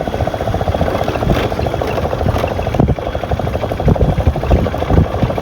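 Yamaha FZS V2 motorcycle's single-cylinder engine running steadily while riding, its exhaust giving a rapid, even pulse, with wind buffeting the microphone.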